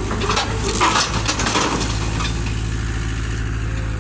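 Engine running steadily at idle, with metallic clanking and rattling during the first two seconds.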